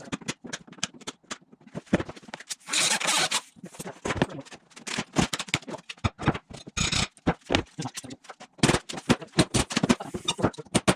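Hand work on a camper's old wooden frame: a rapid run of knocks, clicks and cracks of wood, with a longer scraping rasp about two seconds in and a short one near seven seconds.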